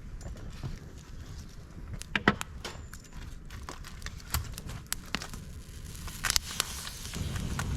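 Dry bamboo and twigs burning in a fire pit: scattered sharp crackles and pops at irregular times over a low rumble.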